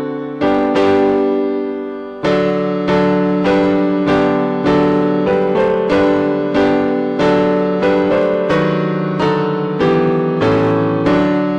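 Piano playing a hymn tune in slow, struck chords, each chord ringing and fading before the next.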